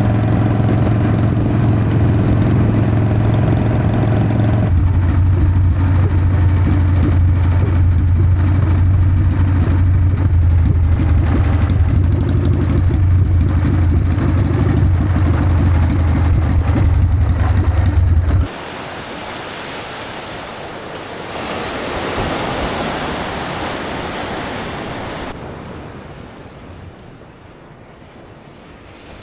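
Harley-Davidson Sportster V-twin engine idling steadily, its sound shifting about five seconds in, then cutting off suddenly after about eighteen seconds. Ocean surf follows, swelling and then fading.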